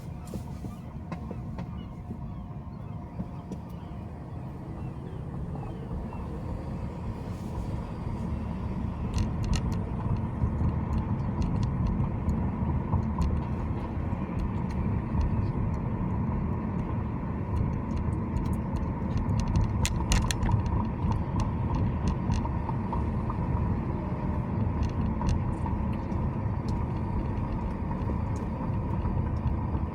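A car being driven: steady low rumble of road and engine noise that grows louder from about six seconds in as it picks up speed, with scattered faint clicks.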